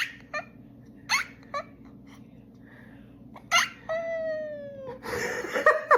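Domestic cat making strange vocalizations: a run of short, sharp squeaky calls, then a drawn-out meow that falls slowly in pitch about four seconds in, then a quick burst of short calls near the end.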